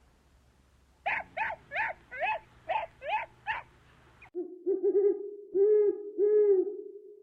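Animal calls in two separate clips: first a quick run of seven short, high calls about a third of a second apart, then, after an abrupt cut, a different animal giving four or five longer, lower arching calls over a steady hum.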